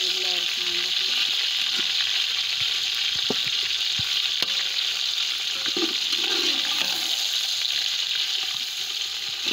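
Chicken pieces frying in hot oil with browned onions in a metal pot, sizzling steadily. A few sharp clinks of the stirring spoon against the pot come about three to four and a half seconds in.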